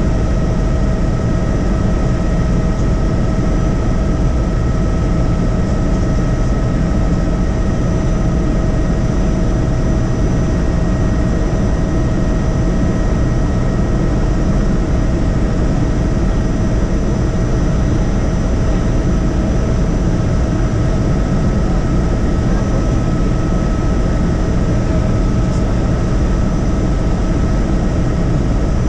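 Helicopter in steady cruise heard from inside the cabin: a constant loud rumble of rotor and engine with a few steady high whining tones over it.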